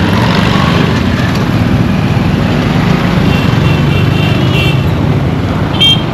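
Busy road traffic with a steady low engine and road rumble. A vehicle horn sounds for about a second around the middle, and a short, louder honk comes near the end.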